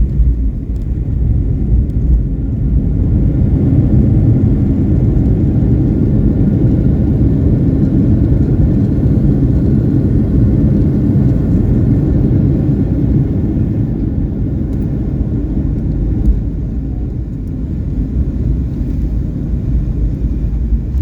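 Passenger airliner cabin noise: a steady, loud, low rumble of the engines and rushing air heard from inside the cabin.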